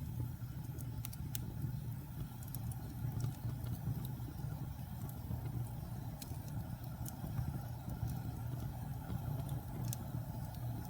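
Wood fire crackling: scattered sharp pops and snaps, roughly a dozen spread irregularly, over the steady low rumble of the burning fire.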